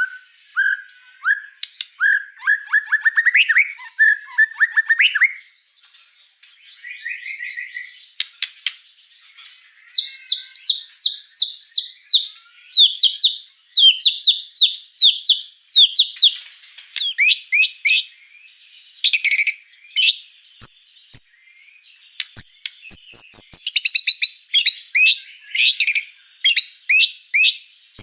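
White-rumped shama singing a long, varied song: runs of rapid repeated chirps and clear whistled notes in changing phrases, with short pauses between them.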